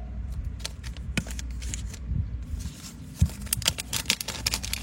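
Metal petrol lighter being handled: a run of sharp clicks and clinks, thickest in the last second and a half, over a steady low hum.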